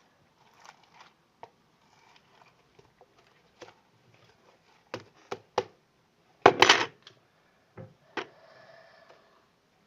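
Slime and small containers being handled on a table: scattered clicks and knocks, several close together around five seconds in, then a louder half-second burst of noise about six and a half seconds in.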